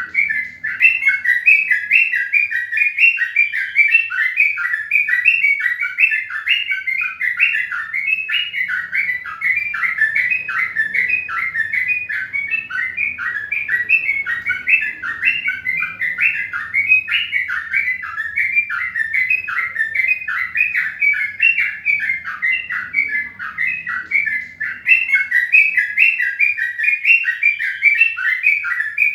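A bird chirping continuously in rapid, evenly repeated short notes.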